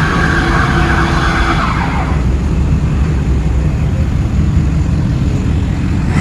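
Car engine running hard with tyres squealing, the squeal fading out about two seconds in while the engine keeps running.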